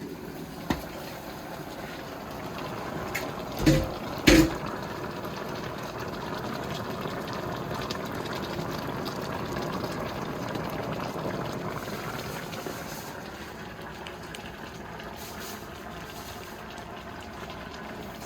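Pot of smoked turkey necks bubbling at a boil, a steady liquid bubbling. A click under a second in and two loud knocks around four seconds in.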